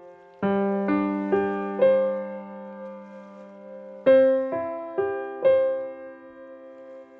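Slow, gentle solo piano music: two phrases of four notes each, every note left to ring and fade, with a pause between the phrases.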